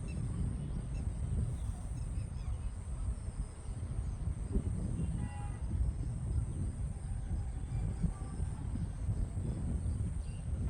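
Outdoor ambience dominated by wind buffeting the microphone with an uneven low rumble. A single bird call sounds about halfway through, and fainter birds are heard in the background.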